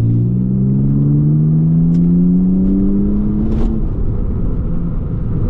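BMW Z4's 3.0-litre straight-six engine accelerating, heard from inside the cabin: its note climbs steadily in pitch for nearly four seconds, then drops away, leaving tyre and road noise.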